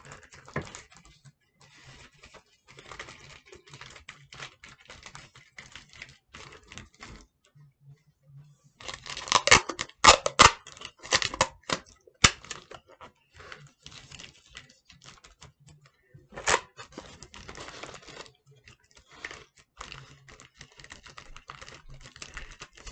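Paper and tape handled by hand: scattered crinkling and rustling, with a louder stretch of tearing and crackling about nine to twelve seconds in and one sharp tear a few seconds later.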